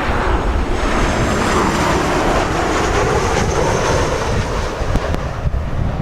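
Jet engines of a Boeing 737-800 (CFM56 turbofans) running on landing approach, with a high whine over a rushing roar that swells and then fades about five seconds in. Heavy wind buffets the microphone throughout.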